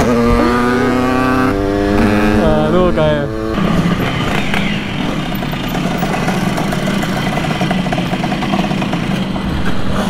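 Simson two-stroke moped engines running on the move. For the first three and a half seconds one engine holds a steady pitch that wavers briefly, then gives way to a rougher, noisier running sound.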